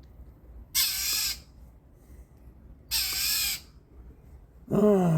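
Northern mockingbird giving harsh, raspy scolding calls at a cat, three about two seconds apart. A lower, falling pitched call overlaps the last one near the end.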